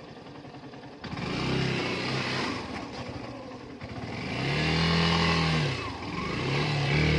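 Motorcycle engine revving, its pitch rising and falling back in three swells starting about a second in, as the bike labours up a steep climb it can barely make.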